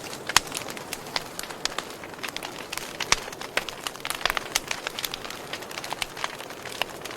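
Wood fire burning: a steady soft hiss with frequent sharp crackles and pops at irregular moments, one louder pop near the start.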